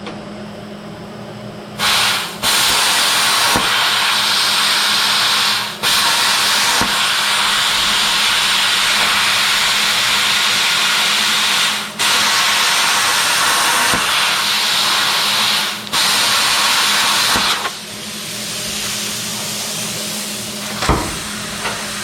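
Air-powered shop tool running in several long bursts, with a strong rushing hiss, while holes are drilled and trimmed out in sheet-metal bodywork. It stops briefly three times, and near the end it falls to a quieter hiss.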